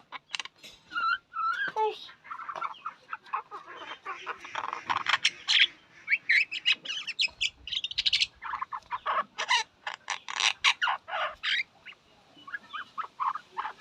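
Common myna calling: a long run of short, harsh, scratchy chattering notes mixed with a few whistled notes, easing off near the end.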